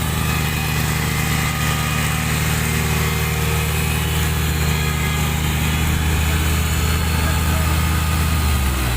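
Engine of a farm vehicle in a muddy field running steadily at a constant speed, its note shifting near the end.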